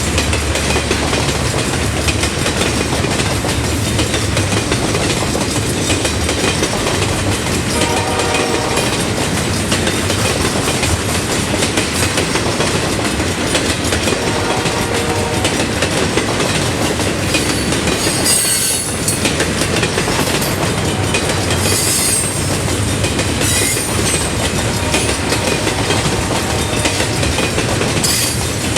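A train rolling through a road crossing, a loud steady rumble with wheels clattering over the rails. Its horn sounds briefly twice, about eight and fourteen seconds in, and short high-pitched wheel squeals come in the second half.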